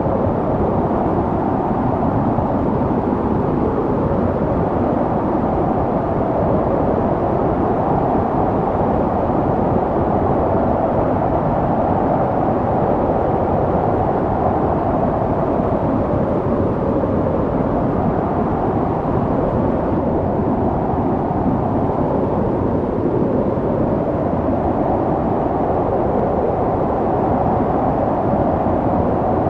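Snowstorm wind blowing steadily, a dense rush of noise whose pitch slowly rises and sinks every few seconds as the gusts swell and ease.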